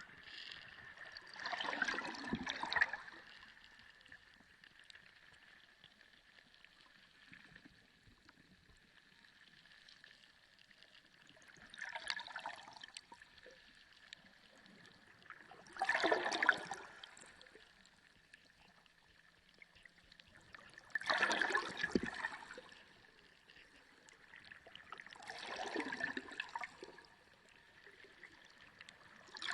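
Sea water heard underwater: swells of water noise, each about a second long, come every four to five seconds over a quiet background with a faint steady high tone.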